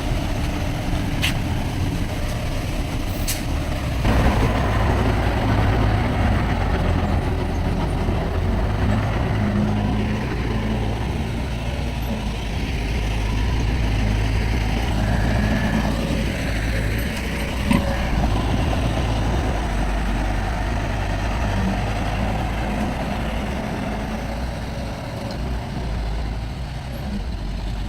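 Heavy diesel earthmoving machinery running under load, getting louder about four seconds in. A few short, sharp sounds stand out over the engine.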